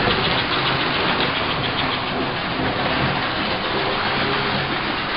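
American Flyer S-gauge model train running on its track: a steady rattle of wheels and gearing over a low motor hum, with fast light clicking during the first couple of seconds.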